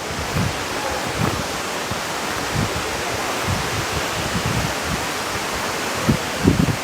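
Steady roar of a large waterfall close by, an even rushing of falling water, with low gusts of wind buffeting the microphone that are strongest near the end.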